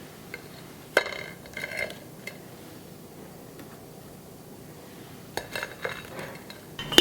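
Kitchenware clinking and knocking: one sharp, ringing clink about a second in, a few softer knocks just after, and a quick run of clinks near the end.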